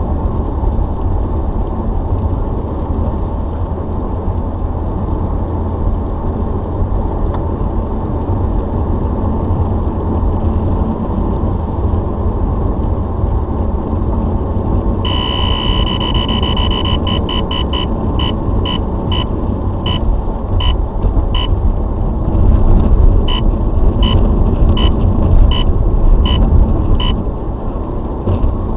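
Car cabin road and engine rumble; about halfway in, a Cobra RU 830 radar detector starts alerting with a held electronic tone, then breaks into short repeated beeps, signalling a police radar gun fired in instant-on bursts by hand.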